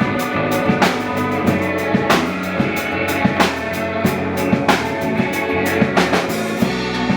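Rock band playing live, drum kit keeping a steady beat with regular snare hits under sustained bass and guitar chords, without vocals.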